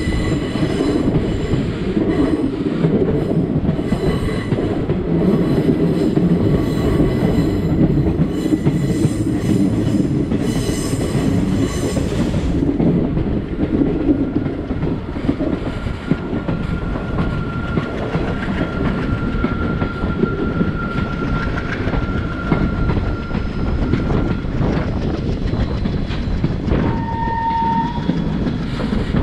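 Passenger train running on the rails, heard from aboard: steady rumble with wheels clattering over the track, crisper in the first twelve seconds or so. A steady high whine runs through the middle stretch, and a short horn blast sounds near the end.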